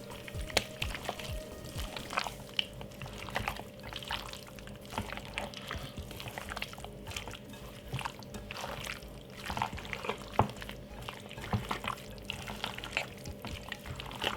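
Gloved hands rubbing seasoning into raw chicken: irregular wet squelching and small clicks and smacks, over a faint steady hum.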